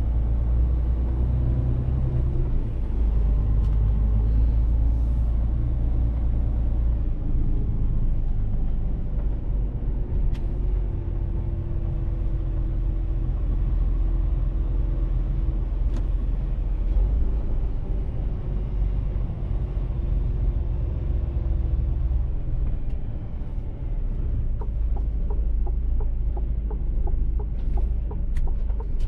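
Mercedes-Benz Actros truck driving, its engine giving a steady low rumble, with a few light clicks near the end.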